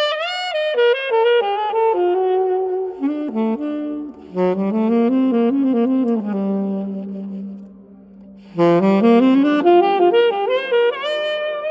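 A Selmer Mark VI alto saxophone playing a solo line. The phrases step down into the low register, hold one long low note for about two seconds, then run quickly back up after a short break.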